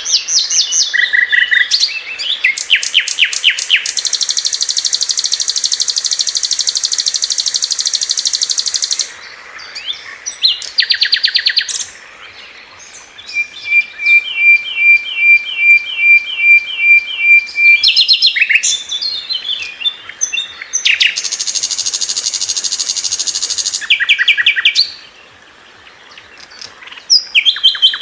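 Sikatan londo flycatcher singing a fast, varied song: quick high trills, long buzzy rattles, and a run of evenly repeated clear notes at about three a second, with a short pause near the end.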